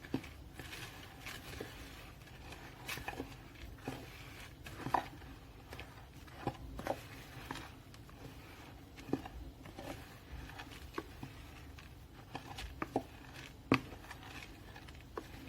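A utensil stirring dry cookie ingredients, flour and rolled oats, in a mixing bowl, with irregular faint clicks and taps against the bowl.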